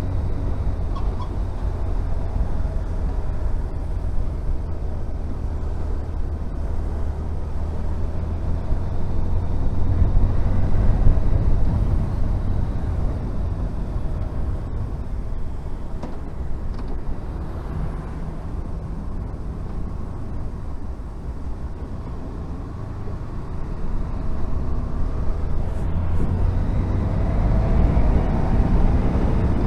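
Honda VFR1200F V4 motorcycle engine running on the move with wind and road noise; the engine note swells about ten seconds in and builds again near the end.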